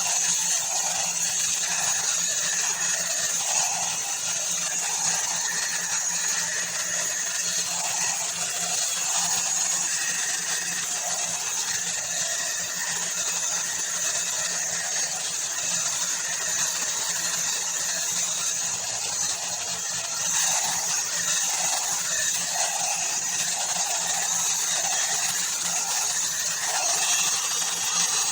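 Ubeator hot air brush (hair dryer brush) running, its motor and fan giving a steady whir with an airy hiss, with a faint regular swelling about once a second.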